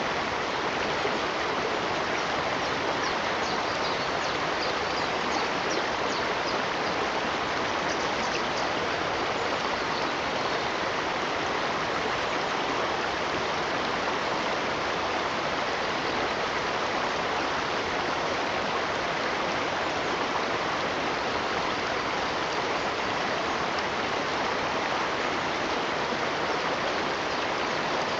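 Running water, a steady even rush of a stream with no change throughout.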